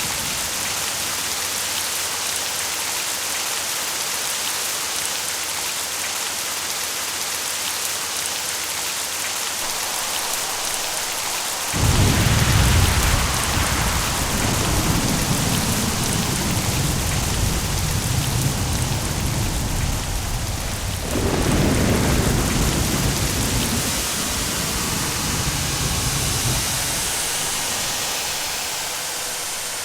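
Steady heavy rain with rolling thunder: a sudden loud clap of thunder about twelve seconds in rumbles on for several seconds, and a second rumble follows about nine seconds later before dying away under the rain.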